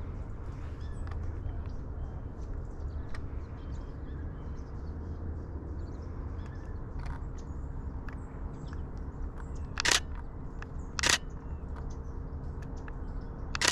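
Canon Rebel T7i DSLR shutter firing in three short bursts, about a second apart near the end, over a steady low outdoor background.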